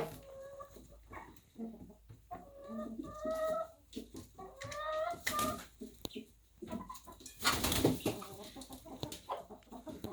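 Chickens clucking, a string of short calls that rise and fall in pitch, with a loud noisy burst about seven and a half seconds in.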